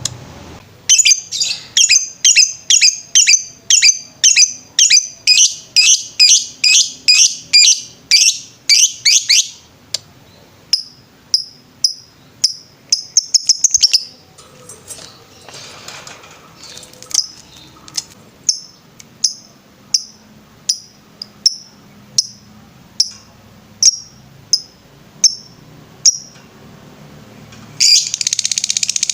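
Lovebird chirping in sharp, high notes: a fast run of repeated chirps for the first nine seconds, then slower single chirps about two a second, then a dense, unbroken trill starting about a second before the end.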